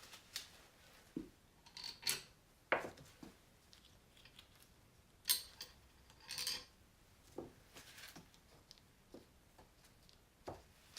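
Scattered metallic clinks and clicks of hand tools and small engine parts being picked up and set down, at irregular intervals, with a slightly longer scrape-like clatter about six seconds in.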